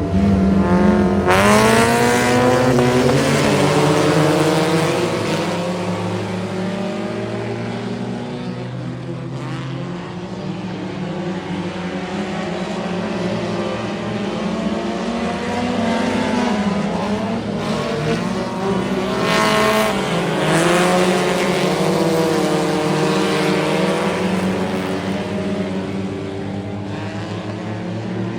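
Several dirt-track race car engines running laps, each rising in pitch on the throttle and falling off into the turns, with the loudest surges about a second in and again around two-thirds of the way through.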